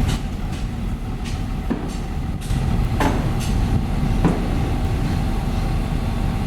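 Heavy construction machine's diesel engine running steadily, with a faint steady whine over it and several sharp knocks scattered through.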